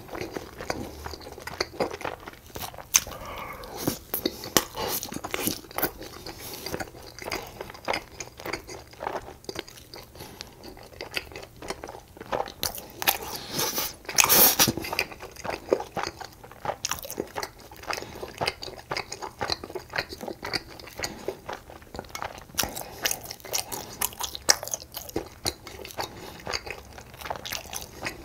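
A person biting and chewing food with frequent crunches and wet clicks, louder and denser about fourteen seconds in.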